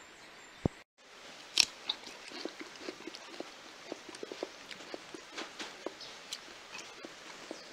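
A person biting into a raw winged bean loaded with guacamole and chewing it close to the microphone: one loud crisp crunch about a second and a half in, then many small irregular crunches of steady chewing.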